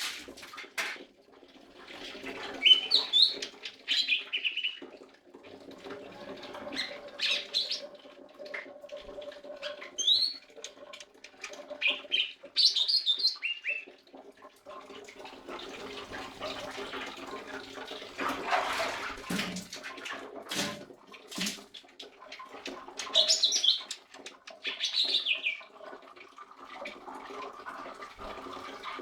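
Lesser green leafbird singing in short, quick chirping phrases in several bouts a few seconds apart, over a steady low hum. A brief burst of noise comes about two-thirds of the way through.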